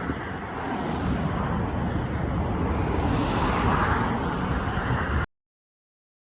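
Car traffic passing on a highway bridge: steady tyre and engine noise, swelling as vehicles go by about a second in and again around three and a half seconds. The sound cuts off abruptly about five seconds in.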